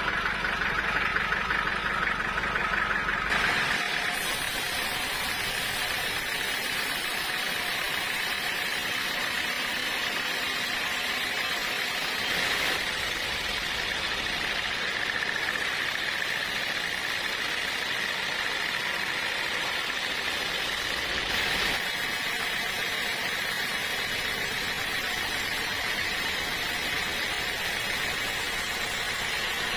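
An engine running steadily with a constant mechanical drone. The sound changes abruptly about four seconds in, losing its low rumble, and shifts again about twenty-two seconds in.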